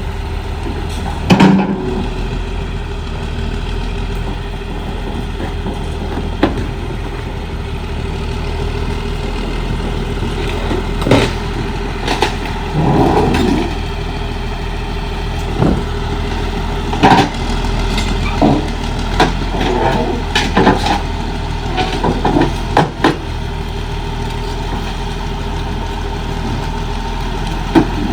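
CAT D6R XL bulldozer's diesel engine running steadily, with short sharp knocks and cracks scattered over it.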